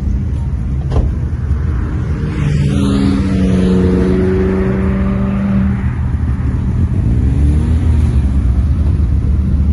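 Car engine running under load over a constant low rumble. Its note rises and holds for a few seconds, then drops back, and rises again briefly near the end.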